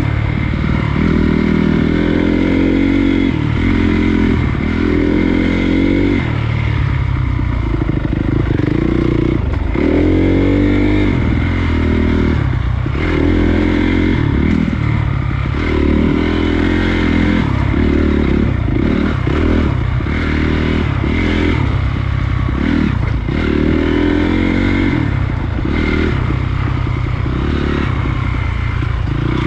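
Honda CRF250 dirt bike's single-cylinder four-stroke engine running under way, its revs rising and falling over and over as the throttle is worked.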